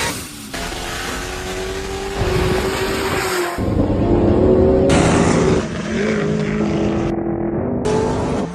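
High-horsepower race cars accelerating hard, engines held at high revs, in a string of short clips cut together. One engine's pitch climbs steeply right at the start.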